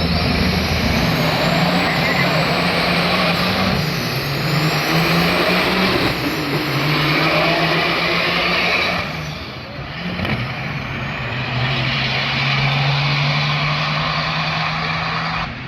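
Big-rig diesel engines running hard, with high turbo whistles that climb in pitch again and again over the engine noise. The sound briefly dips about nine seconds in, then builds again.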